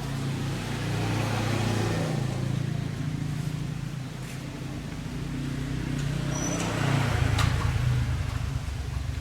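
Small lawn mower engine running steadily, revving up and running rougher about seven seconds in.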